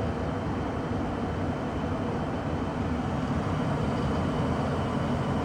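1994 Tempstar SP80 gas furnace running steadily with its burners lit, giving an even low rumble and rush.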